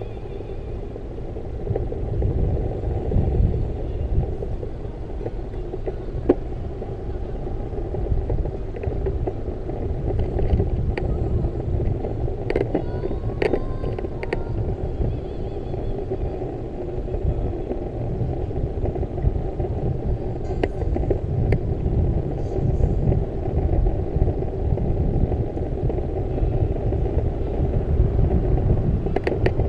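Steady low rumble of wind on the microphone and road noise during a bicycle ride, with a few faint clicks partway through.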